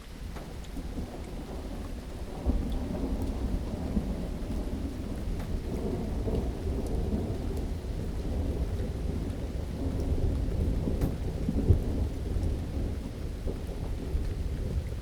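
Rain falling with a long, low roll of thunder that builds in the first couple of seconds, holds, and dies away near the end, with scattered raindrop taps over the rumble.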